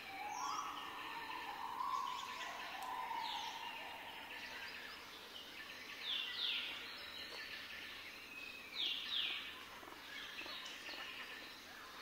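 Small cage birds calling: a lower drawn-out whistle in the first two seconds, then pairs of short, sharp, falling high chirps about six and nine seconds in, over steady background noise.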